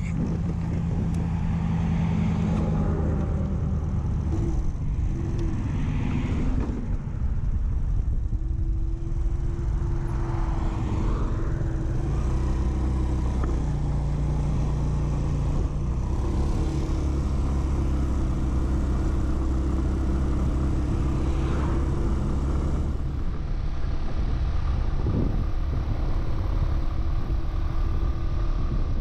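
Yamaha Vino 125 scooter's single-cylinder engine running under way on a ride, with wind noise. The engine note shifts up and down several times with the throttle.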